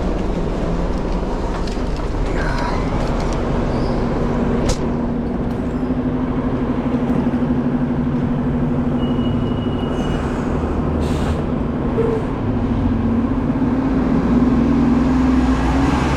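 A vehicle running: a steady low engine hum with a drawn-out tone that rises slightly in pitch, a few faint clicks, and a short high beep partway through.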